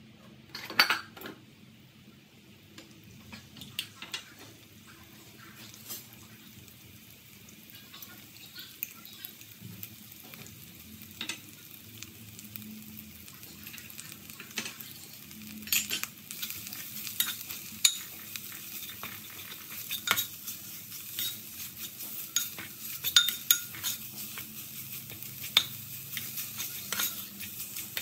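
Yellow spice paste sizzling in hot oil in a pot, the sizzle growing louder about halfway through. A spatula knocks, scrapes and clicks against the pot as the paste is stirred, with one loud knock about a second in.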